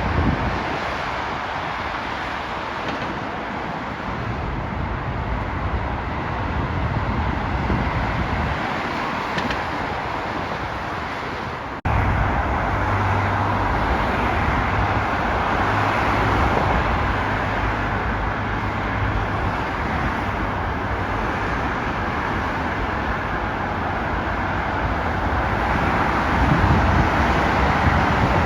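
Steady vehicle rumble and rush with no voices. The sound switches abruptly to a louder take about twelve seconds in, with a stronger low hum.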